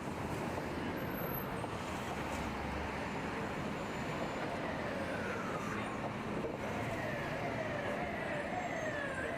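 Street traffic noise, and from about halfway in an emergency vehicle's siren: its pitch sweeps downward again and again, jumping back up after each fall.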